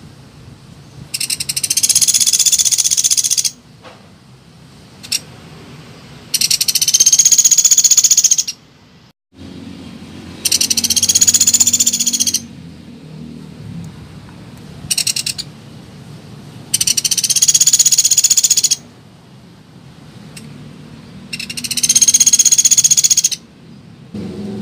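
Pelatuk beras woodpecker calling: long, high-pitched rapid rattling trills of about two seconds each, five in all, coming roughly every five seconds, with a couple of short calls between them.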